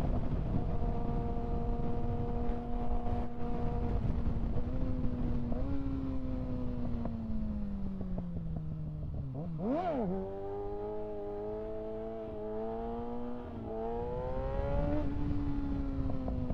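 Kawasaki ZX-6R 636 inline-four engine under way: the note holds steady, then falls away as the bike slows, gives one quick throttle blip about ten seconds in, and climbs again in steps before falling off near the end.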